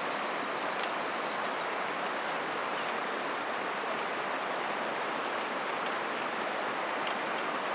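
River water flowing steadily as an even rushing noise, with a few faint ticks here and there.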